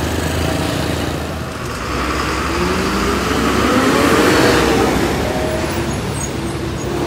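Road vehicle engines running on a climb, with a steady low hum; an engine note rises and falls over a few seconds midway as a vehicle pulls past.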